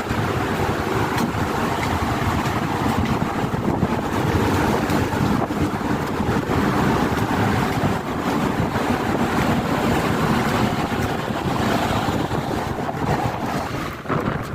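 Steady rumble and rushing noise aboard the passenger ship KM Kelud under way, with wind buffeting the microphone.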